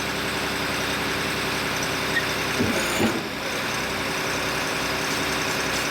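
Heavy diesel engine of concrete-casting machinery running steadily, with a short swell about three seconds in.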